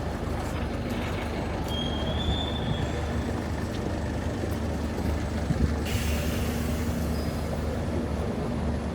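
A heavy vehicle runs with a steady low rumble. A brief high squeal comes about two seconds in, and a hiss starts about six seconds in.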